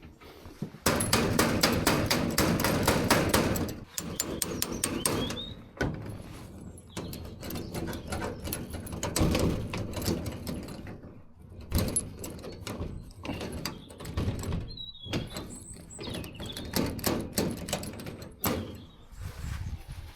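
Hammer tapping on a seized padlock, a fast run of sharp metallic knocks and rattles for a few seconds, then scattered knocks as the lock is worked. The padlock is stuck shut and penetrating oil has not freed it.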